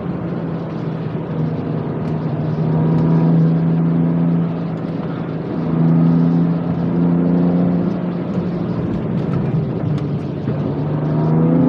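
BMW M2 Competition's twin-turbo straight-six heard from inside the cabin, pulling at fairly steady revs with its note swelling louder a few times, over tyre and road noise.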